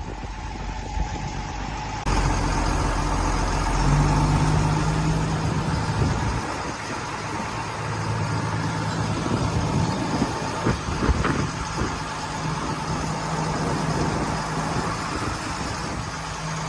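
A steady engine drone with a constant hum, jumping abruptly louder about two seconds in.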